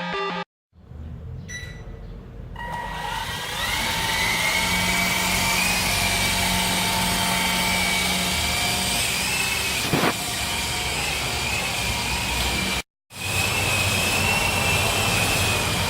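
Small remote-control helicopter's electric motor and rotor spinning up, the whine rising in pitch over about two seconds, then running at a steady high whine. The sound drops out briefly about 13 seconds in and comes back at the same steady whine.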